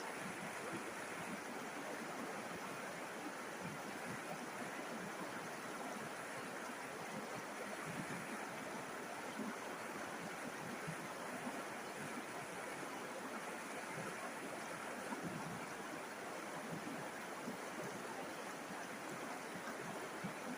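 A river flowing: a steady rushing of water over stones, even throughout with no distinct events.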